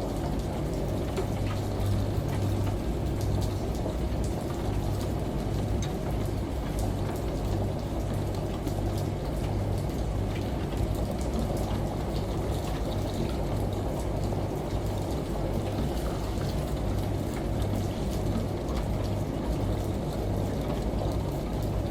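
Steady rush of shower water and rain over the low hum of a washing machine, which pulses on and off about once a second.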